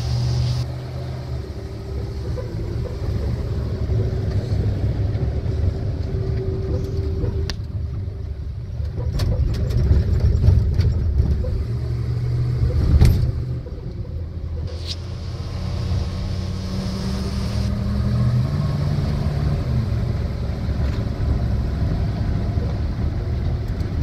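V8-converted Toyota FJ40 Land Cruiser driving, heard from inside its soft-top cab: a steady engine rumble with road noise, swelling louder about ten seconds in and stepping up in pitch later on, with a few sharp knocks or rattles.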